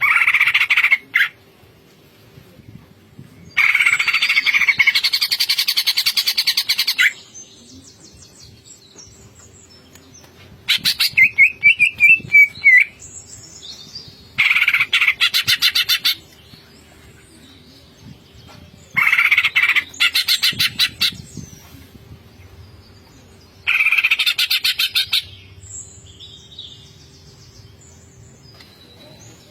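Green leafbird (cucak ijo) singing in about six loud bursts of one to three seconds, separated by pauses. The phrases are fast rattling trills, with a rising and falling whistle in the middle.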